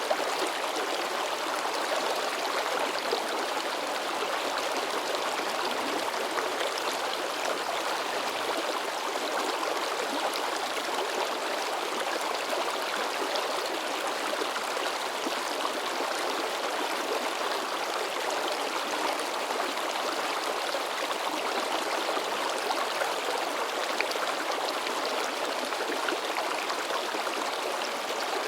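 Babbling forest stream: water splashing and gurgling over rocks in a steady, unbroken rush.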